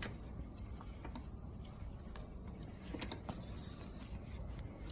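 Faint steady low rumble with a few light clicks and taps of copper pipe and a fitting being handled and slid into place.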